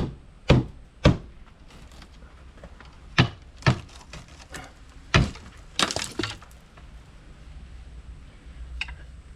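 A string of hard strikes breaking up debris. About six blows come in the first six seconds, then a brief rattling clatter of breaking glass and wood pieces about six seconds in.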